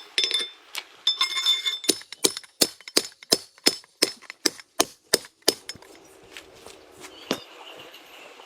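Hammer blows on metal: a ringing clang, then a steady run of about a dozen sharp strikes, roughly three a second, stopping about two-thirds of the way through.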